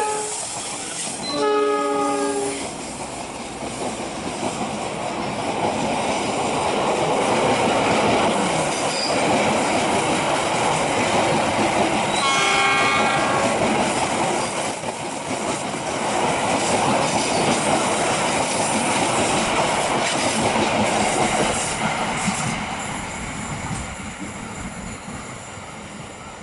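Diesel locomotive horn: the tail of one blast and a second short blast about a second and a half in, then the locomotive and its passenger coaches rumbling past close by with wheels running on the rails. A brief high tone sounds about twelve seconds in, and the rumble fades near the end as the train moves away.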